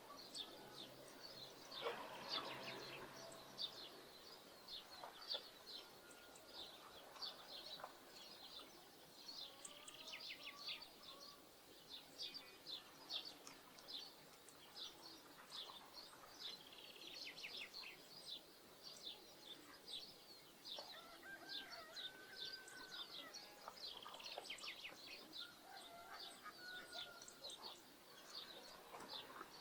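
Faint outdoor birdsong: small birds chirping rapidly and continuously, with a few lower calls from farmyard fowl now and then.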